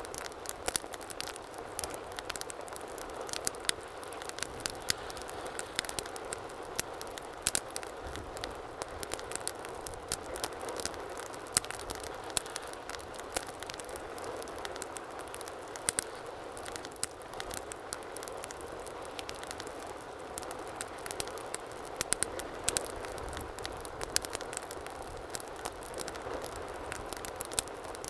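Wood fire burning in a fireplace: a steady hiss of flames with frequent sharp, irregular crackles and pops.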